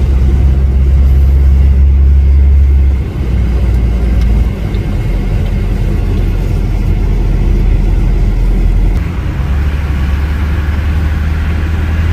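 Motor vehicle driving, heard as a steady low engine and road drone. Its pitch steps down about three seconds in and rises again about nine seconds in, as the engine speed changes.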